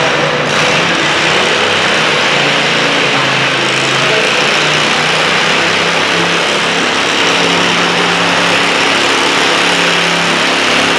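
Stock altered garden tractor engine running hard at high revs, pulling under load, with a steady pitch that shifts a little partway through.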